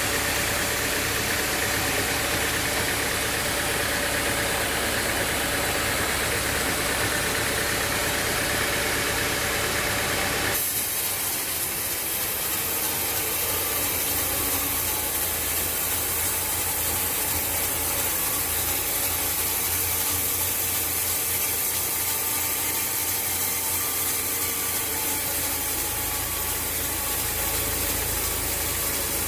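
Engine of the sawmill machinery running steadily. The sound changes abruptly about ten seconds in.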